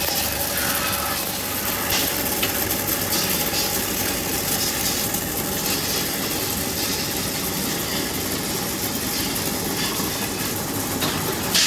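Machinery running steadily with a faint constant hum, and a few sharp clicks or knocks, twice near the start and twice near the end.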